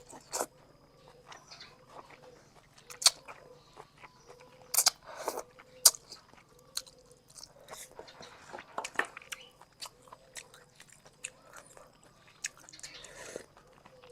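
Close-miked eating of boat noodles with sliced pork: chewing with wet mouth clicks and smacks at irregular moments, and a few short noisy smears.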